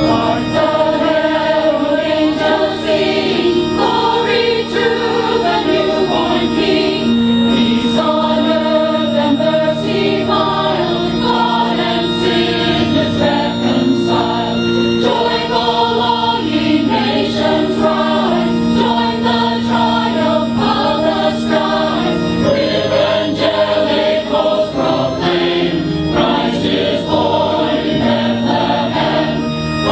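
Community choir singing, with sustained keyboard or organ chords from the accompanist beneath the voices.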